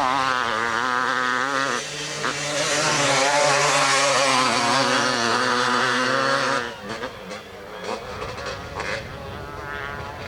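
250 cc two-stroke motocross bikes racing, their engines revving up and down in pitch. About two-thirds of the way through the sound drops suddenly to a fainter, crackly engine noise.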